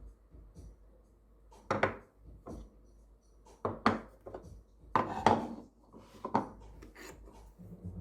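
Irregular kitchen handling sounds: several sharp knocks and clatters, the loudest a cluster in the middle, with light scraping and rubbing between them, as dishes and utensils are handled for a meal.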